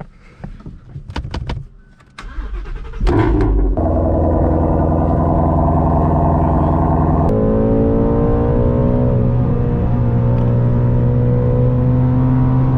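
A few clicks and knocks, then a car engine starts about three seconds in and runs loud and steady, its pitch settling slowly downward after about seven seconds.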